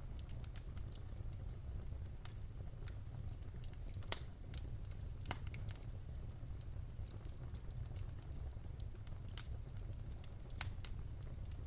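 Wood fire crackling in a fireplace: scattered sharp pops and snaps over a steady low rumble of the flames, with one loud pop about four seconds in.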